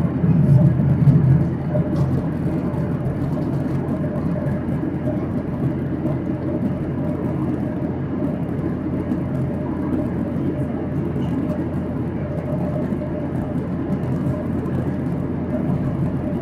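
Steady low rumble inside the cabin of a Boeing 737-800 airliner, its CFM56 jet engines running, a little louder for the first second and a half and then even.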